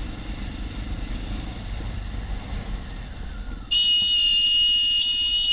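Vehicle engine and road noise while riding. About two-thirds of the way in, a loud, steady, high horn blast starts and holds for about two seconds.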